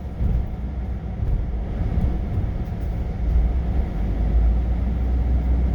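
Engine and road noise heard from inside a delivery truck's cab while driving: a steady low rumble that grows heavier about three seconds in.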